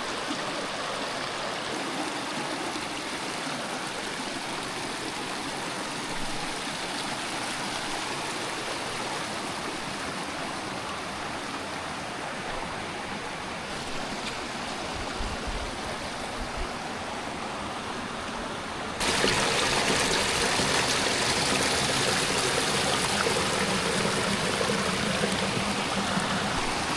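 Rushing creek water, a steady wash of noise that jumps suddenly louder about two-thirds of the way through.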